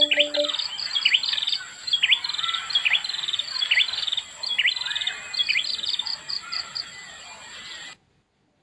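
A songbird calling over and over: quick downward-sweeping whistles alternating with fast runs of short, high repeated notes, over a steady high tone. The last struck notes of bamboo rindik music end about half a second in, and everything cuts off abruptly near the end.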